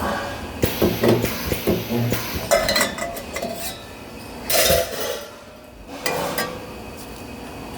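Metal parts clinking and clattering against each other in a spot-welding workshop: a run of sharp knocks, then a few short hissing bursts near the middle and later.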